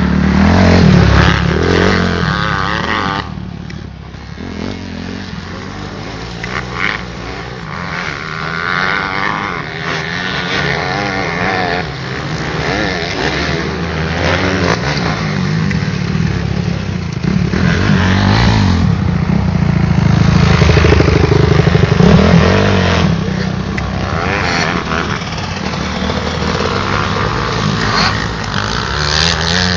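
Motocross motorcycle engines revving on the track, the pitch rising and falling as riders accelerate and back off. The loudness swells and fades as bikes pass, dipping a few seconds in and peaking a little past the middle.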